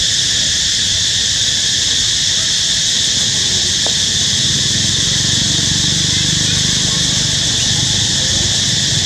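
Loud, steady high-pitched insect chorus that does not let up, with a faint low rumble underneath in the second half.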